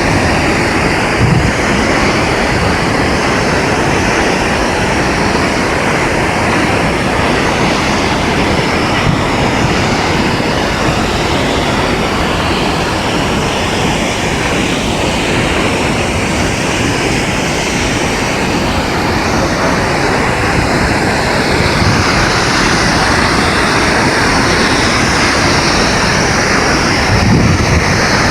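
Steady, loud rush of Multnomah Falls: water falling from a great height and crashing into the pool below, an even roar with no pauses.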